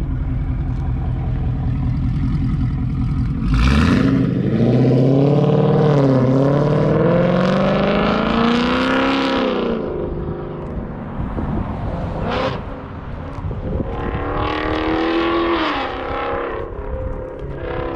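Ford Coyote 5.0 V8 with Kooks headers accelerating hard, heard from far off after a low rumble. It launches about four seconds in and the note climbs in pitch, dips at a shift, climbs again and fades by about ten seconds. A second, shorter pull rises and fades near the end.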